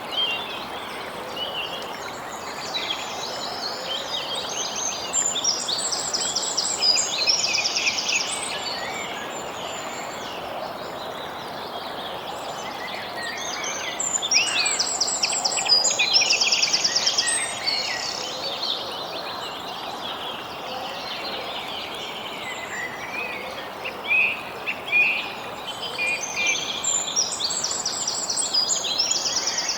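Songbirds singing in three bouts of quick, high trills and chirps, over a steady background hiss.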